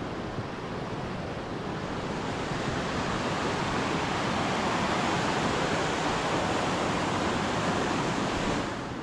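Rushing water of a waterfall-fed stream, a steady rush that swells over the first few seconds and drops off suddenly near the end.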